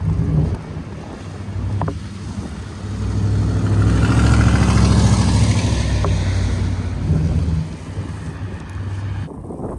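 A heavy vehicle's engine running close by, swelling as it passes in the middle and then easing off, with a hiss of tyres or spray rising and falling over it.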